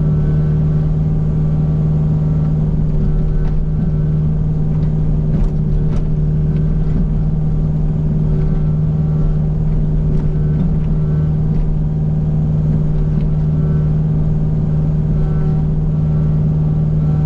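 Kubota U55 mini excavator's diesel engine running steadily at an even pitch, with a few faint clicks.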